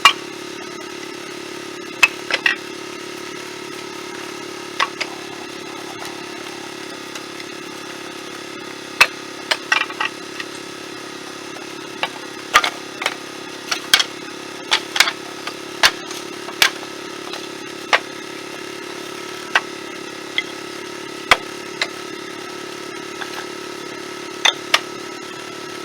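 An engine running steadily at an even pitch, with irregular sharp knocks over it, about one a second, like split firewood pieces landing on wood.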